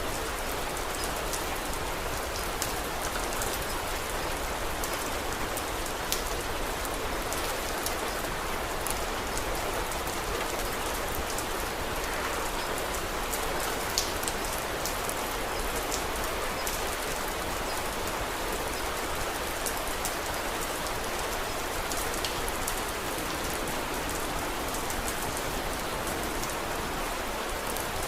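Steady rain falling, an even hiss, with scattered sharp ticks now and then.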